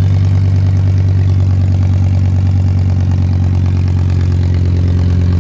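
BMW S85 5.0-litre V10 engine running on a test bench, idling steadily with an even, unchanging pitch.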